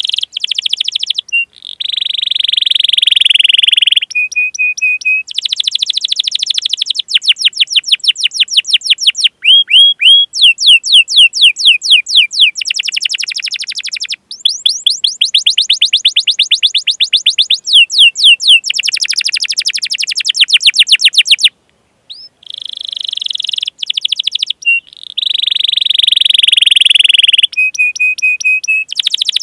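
Domestic canary singing a long song: fast rolled trills of rapidly repeated sweeping notes, alternating with buzzy held trills and short repeated chirps, broken by two brief pauses.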